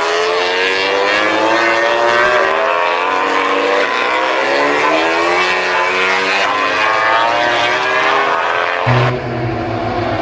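MotoGP racing motorcycle engines at high revs, several overlapping, their pitch sliding down and jumping back up as the bikes pass and shift gears. Near the end the sound changes abruptly to a lower, steadier hum.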